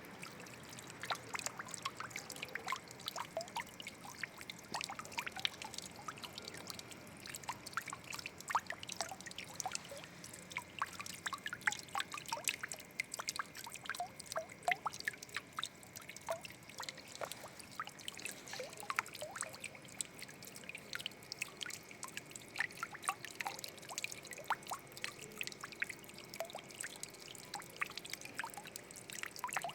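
Water trickling and splashing, with many small irregular drips and plinks over a steady running wash.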